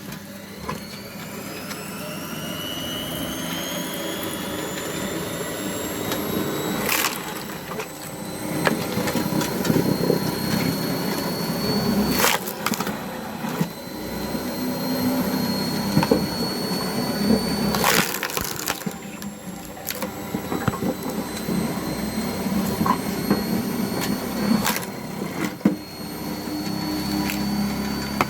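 Cone log splitter driven by a 500 W washing-machine motor: the motor whines, rising in pitch as it spins up over the first few seconds, while wood creaks and crunches as the screw cone bores into a log. Sharp cracks of splitting wood come about 7, 12, 18 and 25 seconds in.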